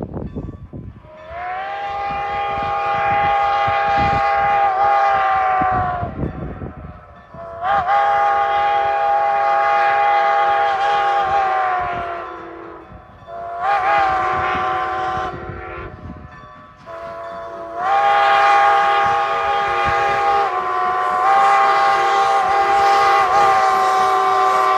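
Strasburg Rail Road No. 90, a Baldwin 2-10-0 steam locomotive, blowing its steam whistle in the long-long-short-long pattern of a grade-crossing signal, over the low rumble of the moving train. The last long blast is still sounding at the end.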